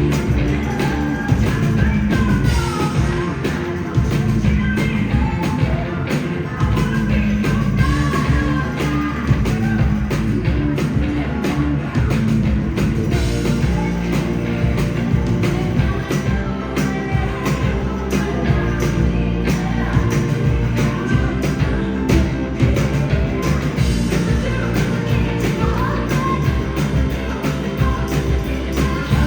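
A rock band playing a song live, with a steady drum beat under a full band sound and a voice singing at times.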